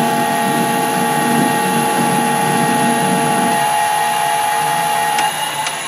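Metal-turning lathe running under power during internal screw-cutting, its gear train giving a steady multi-tone whine. The whine stops about five seconds in, with two sharp clicks near the end.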